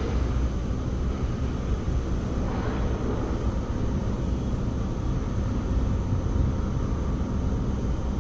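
Steady low mechanical drone, like a motor or engine running, with a faint thin high whine over it and a brief hiss about two and a half seconds in.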